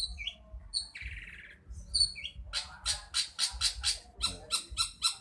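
Long-tailed shrike calling: a few short high chirps and a harsh buzzy note about a second in, then a fast run of sharp, scratchy repeated notes, about five a second, from about halfway on.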